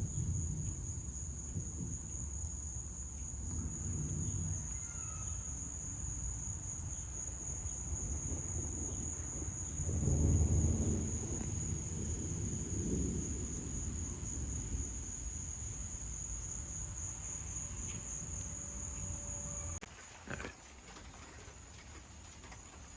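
Thunder rumbling, swelling loudest about halfway through, under a steady high chirring of crickets. Near the end the insect sound stops abruptly and the rumble drops away.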